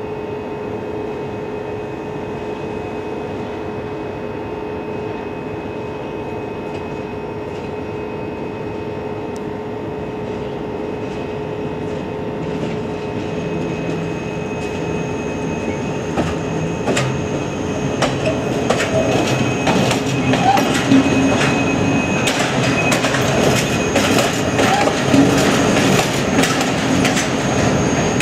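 Passenger train passing on jointed track: a steady running hum at first, then from about halfway the wheels' clicking over rail joints builds into a rapid clatter, with a thin high wheel squeal, growing louder as the coaches pass close by.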